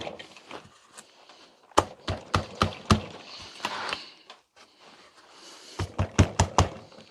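Light taps on a small wooden block holding matchsticks, knocking it into place on a jig so the matchsticks all stand level: a group of four or five quick taps about two seconds in and another quick run of about six near the end.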